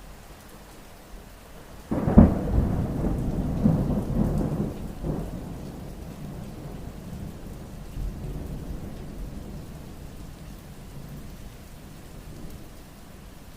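Thunder over steady rain: a sudden crack about two seconds in rolls into a low rumble that fades away over several seconds.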